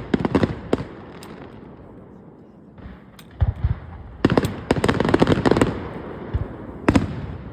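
Aerial fireworks bursting: a few sharp bangs at the start, a short lull, then a dense run of bangs and crackle through the middle and one more sharp bang near the end.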